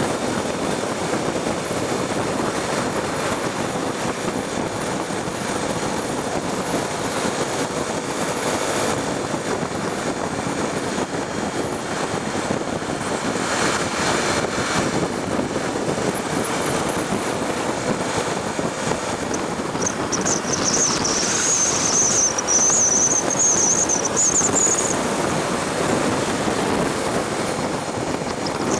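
Honda Tornado 250's single-cylinder engine running at a steady cruise under a rush of wind and road noise. About two-thirds of the way through, a high wavering whistle comes in for about five seconds.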